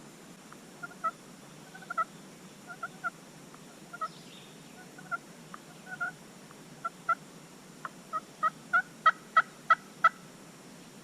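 Turkey yelping: short two-note yelps about a second apart, quickening into a louder, faster run of yelps near the end.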